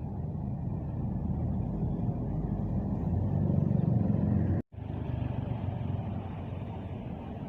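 Bus engine rumbling, growing louder over the first four seconds, then cut off for an instant about four and a half seconds in before a quieter rumble continues.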